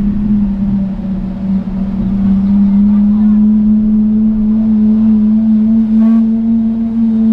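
Car engine running at steady revs, a loud, even drone that creeps slowly higher in pitch.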